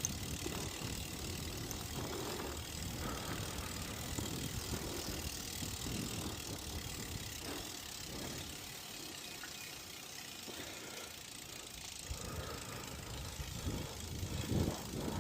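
Bicycles being ridden: a steady rumble of wind and road noise with faint rattles and knocks from the bikes.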